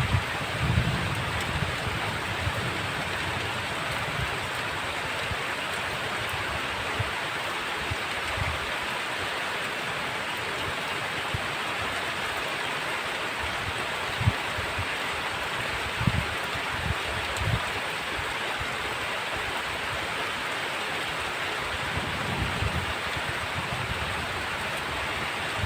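Heavy rain falling steadily, an even hiss, with a few brief low rumbles near the start, around the middle and near the end.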